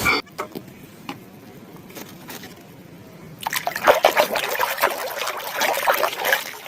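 Water trickling and splashing as a muddy plastic animal toy is rinsed clean, faint with a few small clicks at first and getting busier and louder about three and a half seconds in.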